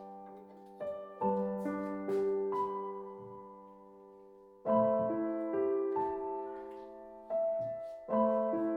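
Soft background piano music, notes struck in slow phrases and left to ring and fade, with faint small clicks and knocks under it.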